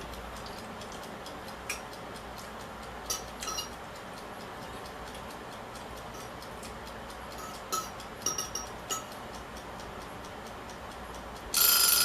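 A few light clicks and clinks while eating over a steady low hiss, then, about eleven and a half seconds in, a loud electronic timer alarm sounds for a little over a second, marking the end of the timed eating session.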